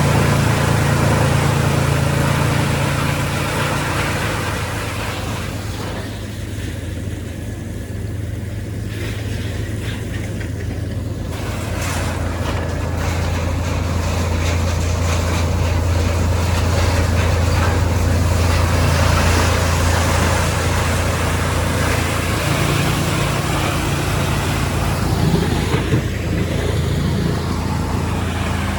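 Mobile drum wood chipper running on electric motors: a steady low motor hum under a rushing mechanical noise. The higher noise thins for a few seconds about a fifth of the way in, then comes back and holds.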